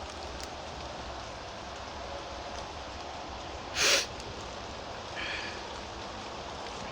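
Steady heavy rain falling, with a short loud hissing burst about four seconds in and a fainter one about a second later.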